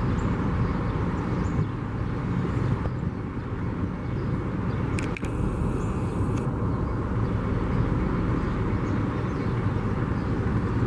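Steady, low rumbling outdoor background noise with no distinct source, with a brief click about five seconds in.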